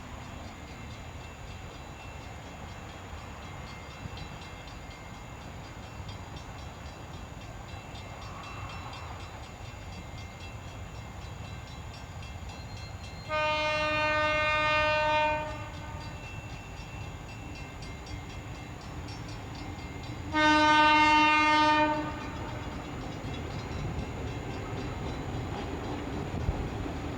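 Diesel freight locomotives' horn sounding two long blasts, the second louder, over the low rumble of the approaching train, which grows louder near the end.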